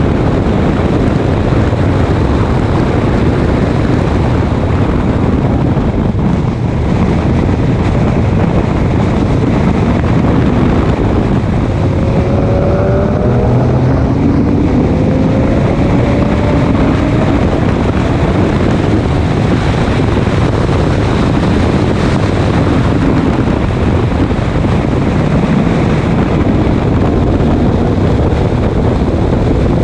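Race car running at speed: a loud, steady roar of engine and wind noise. The engine note climbs in pitch under acceleration about twelve seconds in and again near the end.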